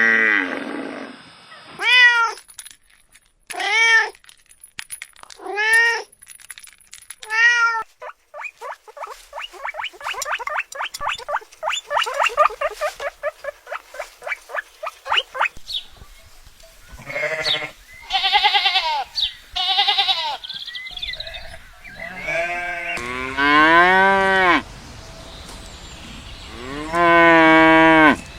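A succession of animal calls from several animals in turn: four short, arched, rising-then-falling calls about two seconds apart, then a long run of rapid pulsed calls, then several longer, lower calls toward the end.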